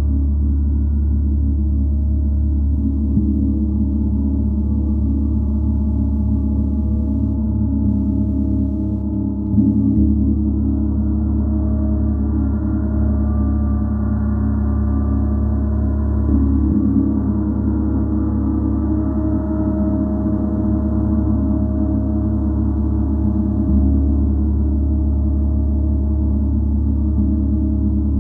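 Gong played in a continuous deep ringing wash. It is struck again about every seven seconds, each stroke renewing the low hum without a sharp attack.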